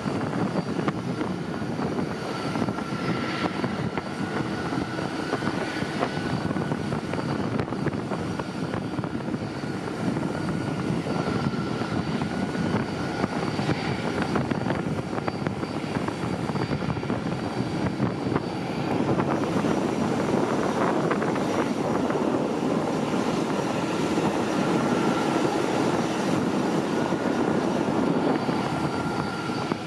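Jet airliner engines running: a steady loud rush with a thin high whine, swelling a little louder about two-thirds of the way through.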